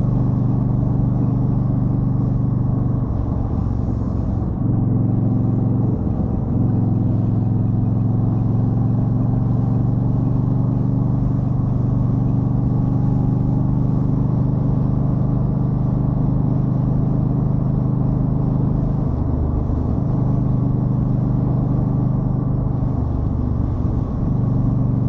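Yamaha Stryker V-twin motorcycle engine running steadily under way, its tone briefly breaking or shifting about four times, near 3, 6, 19 and 23 seconds in.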